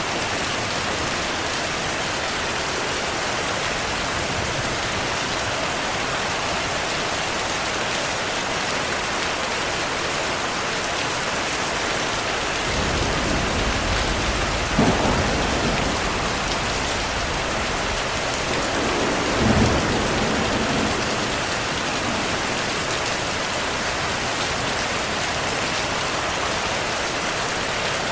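Steady heavy rainfall hissing throughout, with a thunder rumble rolling in about halfway through and two louder cracks a few seconds apart before it fades out.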